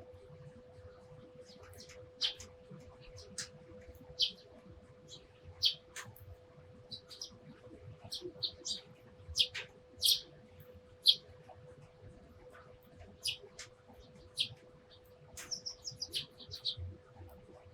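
Eurasian tree sparrows chirping: short, high, separate chirps at irregular intervals, with a quick run of chirps near the end. A faint steady hum sits underneath.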